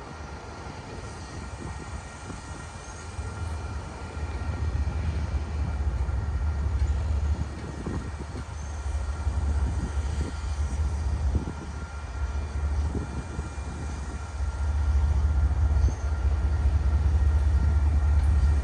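Low rumble of an approaching Norfolk Southern freight train, growing louder about four seconds in and again near the end.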